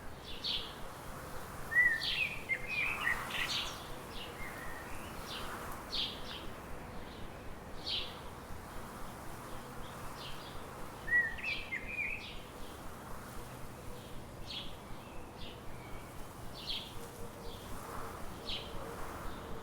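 Songbirds calling: short high chirps repeated every second or so, with a louder, quick warbled phrase twice, about two seconds in and again near the middle.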